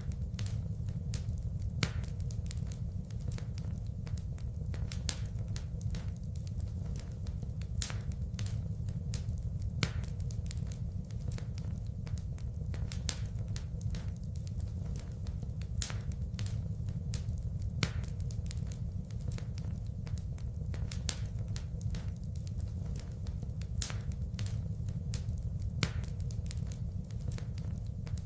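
Wood fire burning in a fireplace: a steady low rumble of the flames with frequent irregular sharp crackles and pops of the burning wood.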